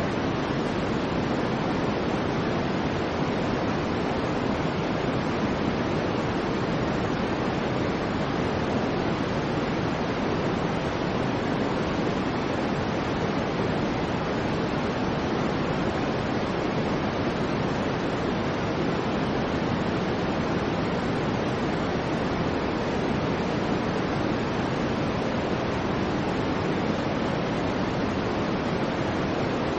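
Soft, steady white noise: an even, unchanging rush of hiss, fuller in the low-middle range than in the highs.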